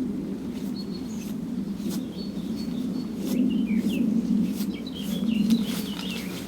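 Small birds chirping in short high calls and quick glides, with a few brief crackles, over a louder steady low rushing noise.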